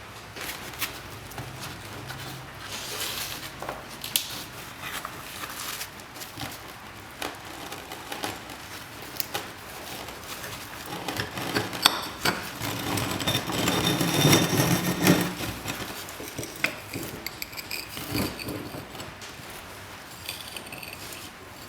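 Hands working on the old projector's parts: scattered clicks and knocks of metal and hardware being handled, with a louder stretch of scraping and rubbing about halfway through.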